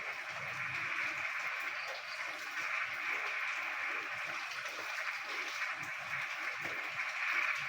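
A dense chorus of frogs croaking in the rain: many short, overlapping croaks repeating rapidly over a steady hiss.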